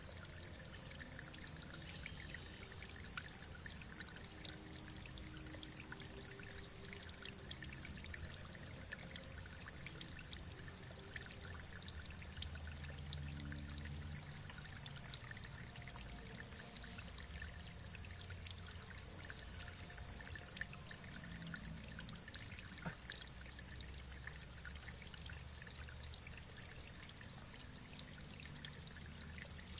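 Steady running water with a few small ticks scattered through it.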